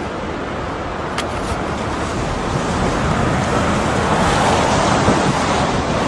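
Strong storm wind buffeting the microphone: a steady rushing noise that grows a little louder in the second half.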